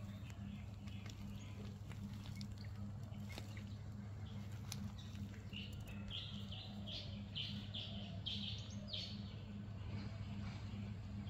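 A bird chirping outdoors in a quick run of short, high notes, about two or three a second, from about six seconds in to about nine seconds, over a steady low hum.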